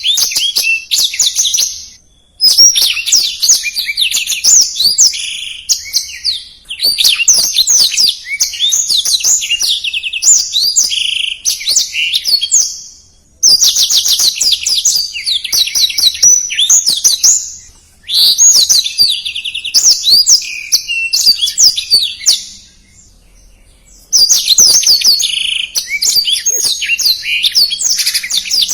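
Black-throated canary (blackthroat) singing a fast, dense song of rapid high twitters and trills, in about six long phrases separated by short pauses.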